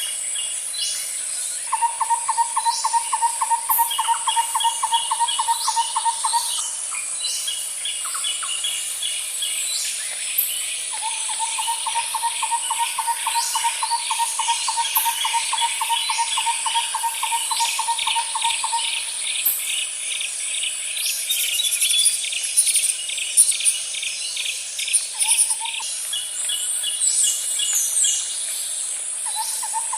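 Insect and bird chorus: a steady high insect drone with rapid, evenly pulsed trills running several seconds at a time. One lower-pitched trill comes twice in long runs, and a higher trill runs through the middle. Short bird chirps are scattered over the top.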